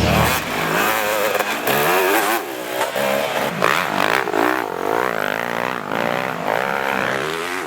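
Motocross bike engines revving up and down over and over, the pitch rising and falling every half second or so as the riders work the throttle.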